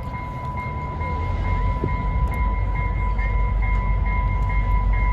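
EMD GP9 diesel locomotive's engine rumble growing louder about a second in as it approaches, under the steady, rapidly pulsing ring of a railroad grade-crossing warning bell.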